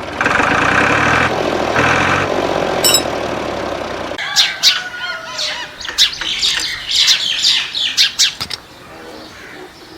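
A pulsing buzz for about four seconds that cuts off abruptly, followed by a rapid series of short bird chirps that fade near the end.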